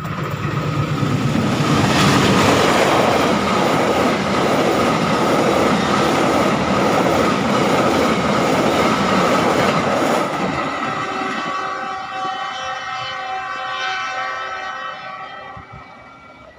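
A train passing close by with wheels clattering over the rail joints, loud for about ten seconds, then fading steadily as it moves away. A steady pitched tone carries on underneath.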